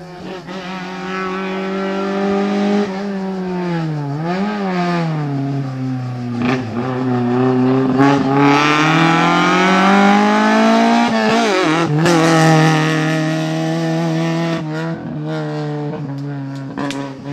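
Small hatchback race car's engine revving hard through a cone slalom, the revs rising and falling with the throttle. A long climb in pitch ends in a sharp drop about eleven seconds in, then the engine runs at steadier high revs.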